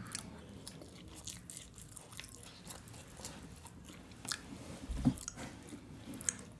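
Close-miked chewing and biting of food, with scattered small clicks and a brief low thump about five seconds in.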